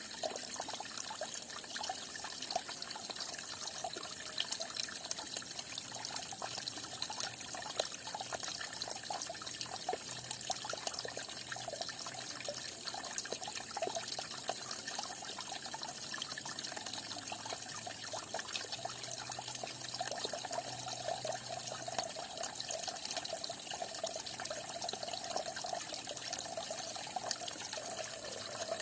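Falling water splashing steadily: a continuous trickle with many small splashes.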